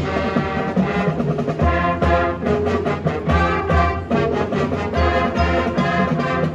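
High school marching band playing, brass to the fore, with chords changing every half second or so over repeated low bass notes.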